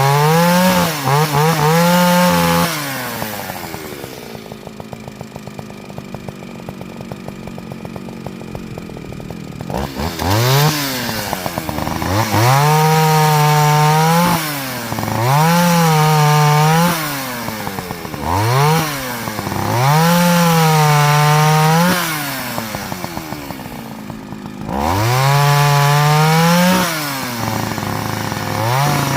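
Partner Farmer two-stroke chainsaw cutting small wood: it is revved up to full throttle in about six bursts of one to three seconds each, dropping back to idle between them, with a longer spell at idle early on.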